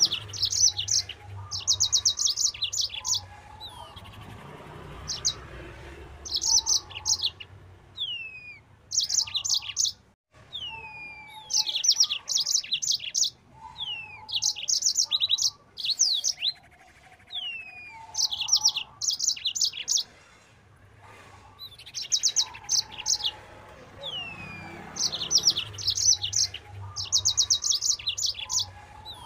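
Yellow-fronted canary (Mozambique canary) singing fast and continuously. Its song comes in bursts of rapid trilled notes about a second long, with high whistles that slide downward between them.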